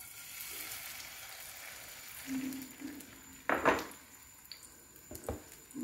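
Egg and bread omelette mixture poured into hot oil in a frying pan, sizzling as it hits the oil, the sizzle fading over the next few seconds. A short sharp knock about three and a half seconds in.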